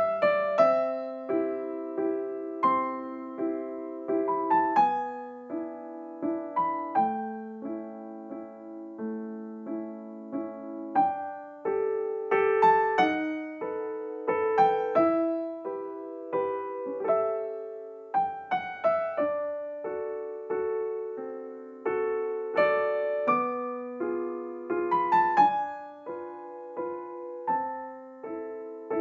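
Background music: a gentle piano melody with chords, notes struck and fading one after another.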